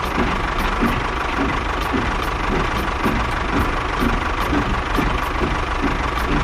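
A small engine running steadily with a regular knocking, a few beats a second.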